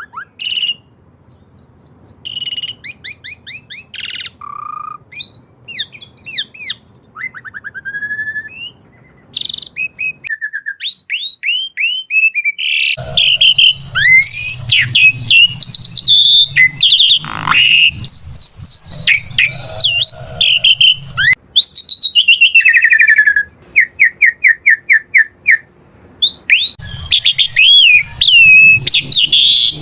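Asian pied starling singing a long, varied song of whistles, chirps and quick rising and falling notes. It gets louder about halfway through, and a fast run of evenly repeated notes comes near the end.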